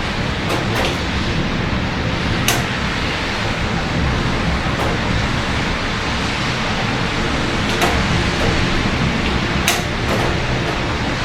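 Steady rain hiss over a low, even rumble of city traffic, with a few sharp ticks standing out, the strongest about two and a half seconds in, and twice more in the second half.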